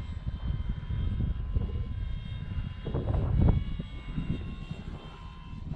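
Electric motor and propeller of a Dynam Hawker Hurricane V2 RC warbird whining steadily in the air, sagging slightly in pitch on a crosswind landing approach. Gusty wind rumbles on the microphone, loudest about three seconds in.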